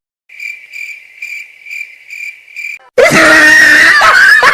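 Cricket chirping sound effect, a high pulsing trill about twice a second, cuts off after about two and a half seconds. Loud screaming starts abruptly about three seconds in.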